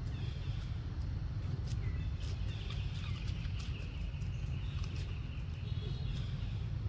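A baby monkey giving a long, high-pitched, wavering cry from about two seconds in to nearly the end, over a steady low rumble and scattered light ticks.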